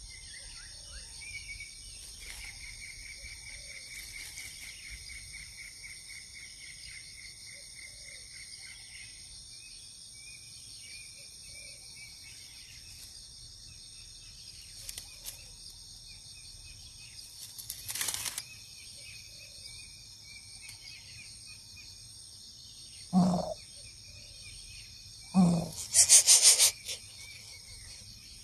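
Insects drone steadily and small birds call with trilling notes. Near the end come two loud, deep hoots, typical of a coucal, followed at once by a loud burst of rustling noise.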